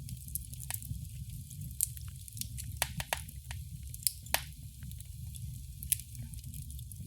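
Wood fire in a fireplace crackling: irregular sharp pops and snaps over a low, steady rumble of the flames, with a few louder pops about two, three, four and six seconds in.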